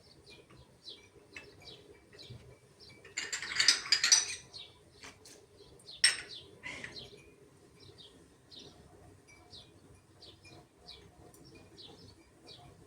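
Small birds chirping over and over, about two short chirps a second. A loud rustling burst comes about three to four seconds in, and a sharp click about six seconds in.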